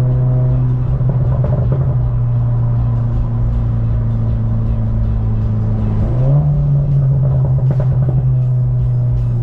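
Vehicle engine running at a steady speed, its pitch rising about six seconds in as it speeds up and then holding, with background music.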